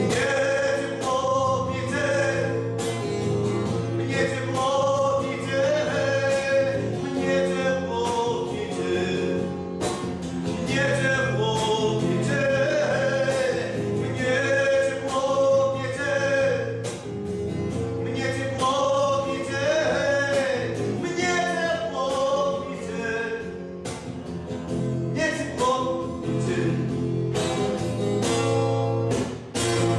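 Male singing over strummed acoustic guitar, a live acoustic rock song.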